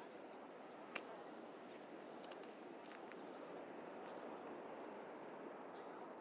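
Small birds chirping in short, high clusters over a faint, steady outdoor hiss, with one sharp click about a second in.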